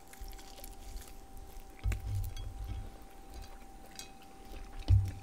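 A person chewing a bite of grilled chicken drumstick close to the microphone, with faint wet crackles. There is a low thump about two seconds in and a sharper one near the end.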